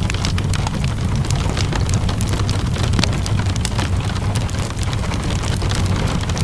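Wood fire crackling with many small sharp pops over a steady low rumble, mixed with steady rainfall.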